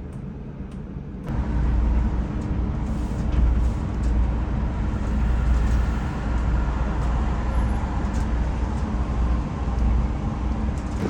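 Steady low rumble of engine and road noise inside a moving coach. It comes in abruptly about a second in, after a quieter stretch.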